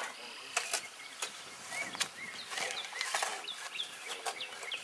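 Birds chirping, with short rising and falling calls several times a second. Scattered sharp clicks and knocks sound between them.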